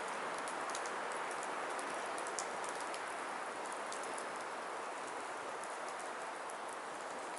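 Firewood burning: a steady hiss of flames with frequent small, sharp crackles and pops from the wood.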